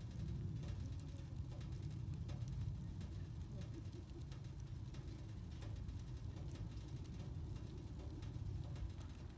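Wood campfire burning, with scattered small crackles and pops over a low steady rumble.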